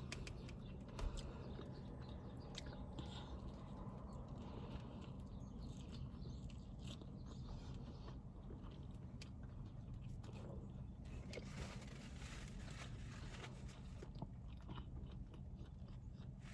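Faint close-up chewing and biting of fast food, with small crunches and clicks, and a soft knock about a second in.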